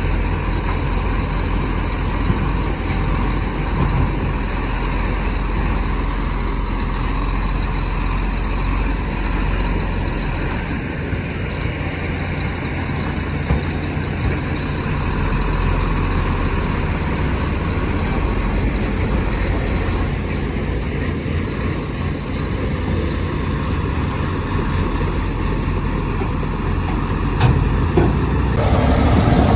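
Heavy diesel earthmoving machinery running steadily at work, a low continuous engine drone, with a couple of sharp knocks near the end.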